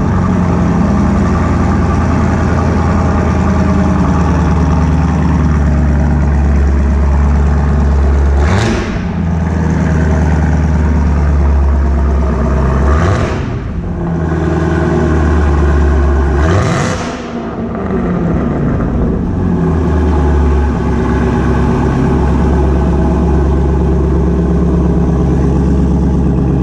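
2018 Camaro ZL1's supercharged 6.2-litre V8 idling through a Borla S-Type cat-back exhaust with the secondary catalytic converters deleted. It is revved briefly three times, about four seconds apart, each rev rising and dropping back to idle.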